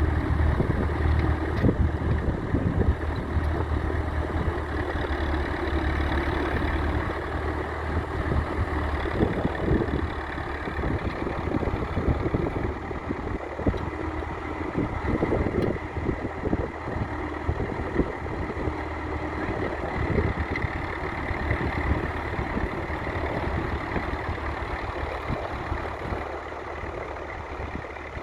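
1961 Massey Ferguson 65's 3.3-litre four-cylinder diesel engine running steadily while the tractor pulls a Ransomes two-furrow plough, slowly growing fainter over the last part.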